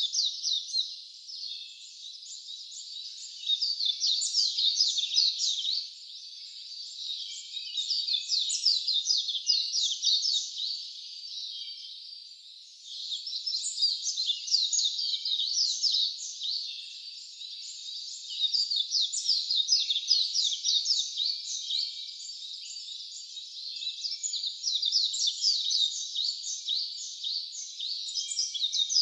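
A dense chorus of many wild birds chirping rapidly and high-pitched. It swells and fades every few seconds without a break.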